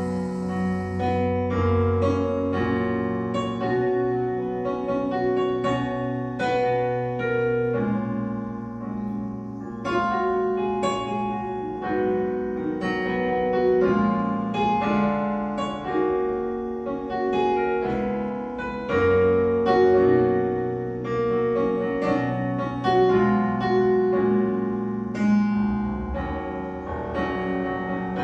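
Piano playing an instrumental interlude of a slow live worship song, notes and chords struck one after another and left to ring.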